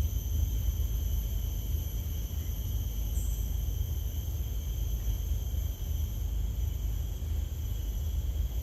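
Wind rumbling on the microphone, with a steady high-pitched insect drone behind it.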